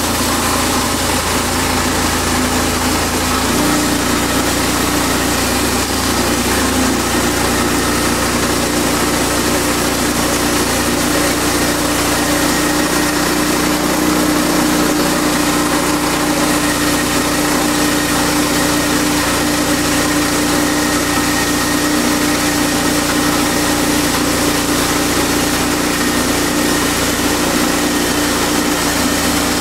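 Portable bandsaw sawmill's gasoline engine running steadily. Its pitch rises a little about three and a half seconds in and then holds.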